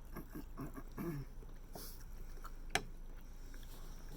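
Quiet eating sounds: chewing and mouth noises with a few short, low hums in the first second or so. One sharp click comes a little under three seconds in.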